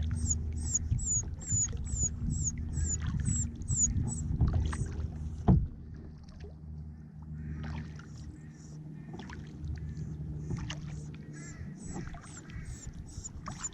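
Kayak paddling: a low rumble with scattered knocks of the paddle against the hull, and one sharp knock about halfway through that is the loudest sound. A bird gives a high, thin, falling call note about three times a second; it stops about a third of the way in and starts again near the end.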